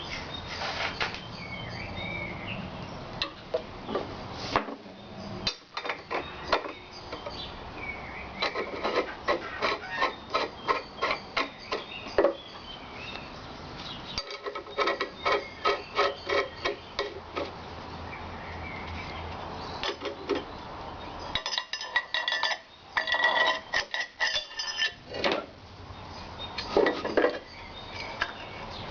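Iron parts of an antique wrought-iron blacksmith's leg vise clinking and knocking together as the vise spring and fittings are put in place during reassembly: runs of quick metallic taps and a few ringing strikes.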